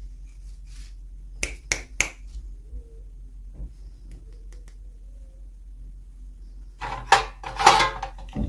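Small plastic pieces or packaging being handled: three sharp clicks in quick succession about a second and a half in, then a short flurry of clicking and crinkling near the end.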